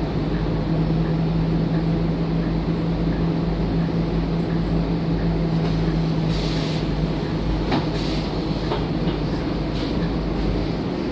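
Scania K230UB bus on the move, heard from inside: a steady engine and road drone with a held hum that fades about six seconds in. A few sharp rattling clicks follow in the second half.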